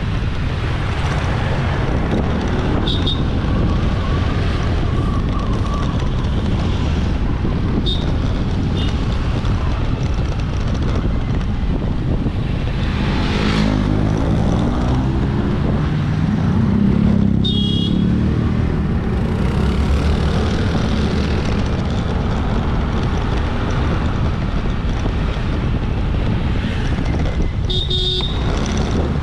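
Riding a motorbike in busy road traffic: steady wind rush on the microphone over engine and road noise. Another vehicle's engine passes close about halfway through, and a few short high-pitched beeps sound from the traffic.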